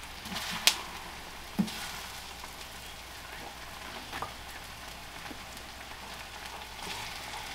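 A ground-meat, potato and longaniza stew sizzling steadily in a cazuela, with a few sharp clicks and knocks of a wooden spoon against the pot and the stone molcajete.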